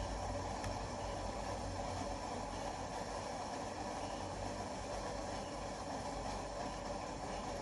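Steady background noise with a low hum, without any distinct sounds standing out.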